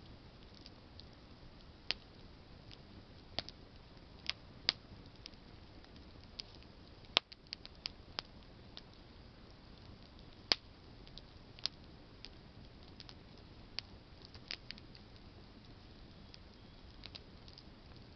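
Campfire of burning branches crackling: irregular sharp pops and snaps over a soft steady hiss of flame, with a few louder pops, one of the loudest about ten seconds in.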